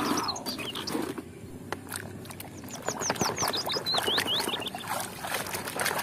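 Muddy water sloshing and plastic toys clicking and knocking as they are handled and washed by hand, with birds chirping in many short, high, quick calls throughout.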